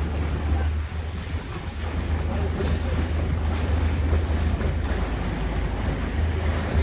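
Boat underway: a steady low drone with water noise and wind buffeting the microphone.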